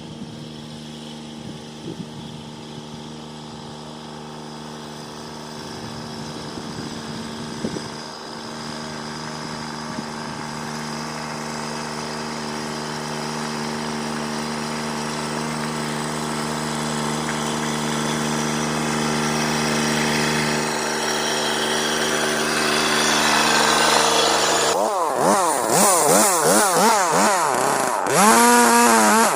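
Small gasoline engine of a portable bandsaw sawmill running steadily and growing louder. In the last few seconds a harsh hiss of the blade cutting through wood joins it, and the engine's pitch wavers under the load.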